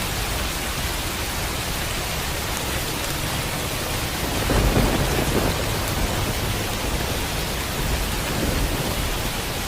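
Steady rain falling, with a low rumble of thunder swelling up about halfway through and dying back over a couple of seconds.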